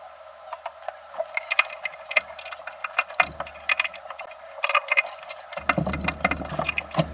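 Irregular clicking and tapping, growing busier about a second and a half in.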